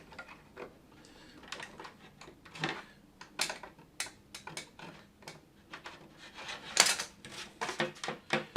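Irregular light clicks and taps of hard 3D-printed plastic parts being handled, as a stiff pin-hinged control surface is worked back and forth; one sharper click about seven seconds in.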